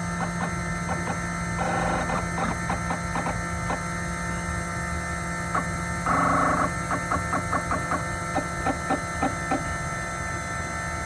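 Small desktop CNC machine for milling phone ICs, humming steadily with its spindle motor running. Twice, a short buzz from the machine moving its head is followed by a run of light clicks.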